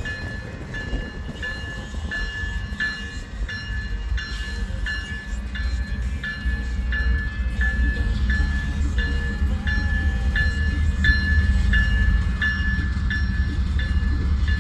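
Freight train led by a CPKC diesel locomotive rumbling by, growing louder from about six seconds in. A bell rings steadily at a little over one strike a second throughout.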